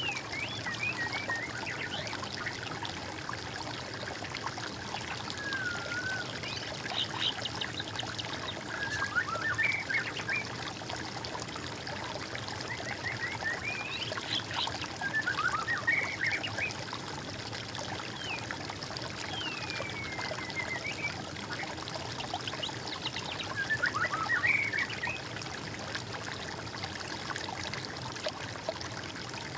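Water trickling steadily, with songbirds singing short, warbling phrases every few seconds over it.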